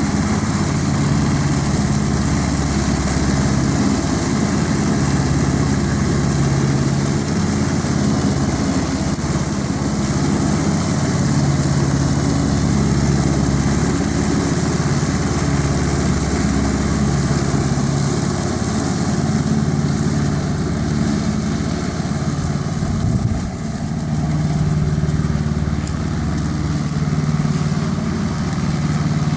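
Tractor engine running steadily at a low, even speed, with a brief dip in level about three-quarters of the way through.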